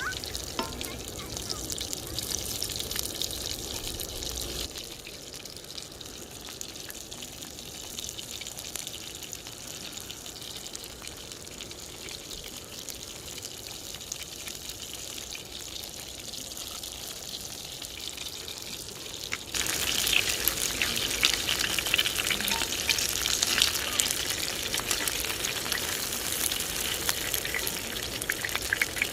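Food frying in hot oil on a griddle, a steady sizzling crackle that jumps abruptly to a louder, busier sizzle about two-thirds of the way through.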